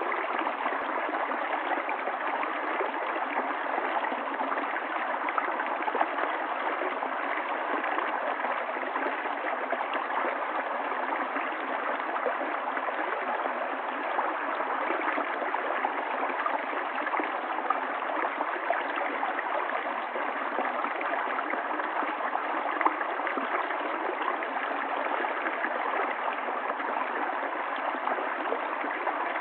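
Running water of a stream: a steady rush with many small splashes, unchanging in level.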